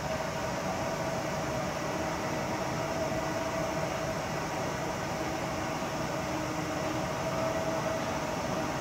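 Freight train hauled by a red EF510 electric locomotive passing at a distance: a steady, even rumble with a steady hum over it and no distinct wheel clicks.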